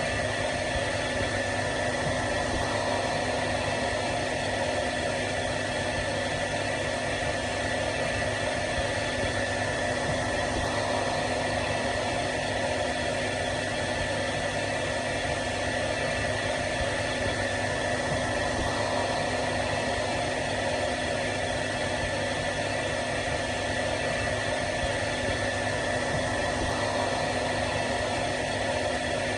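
Hair dryer running continuously: a steady rushing blow of air with a steady motor hum and whine, unchanging in level.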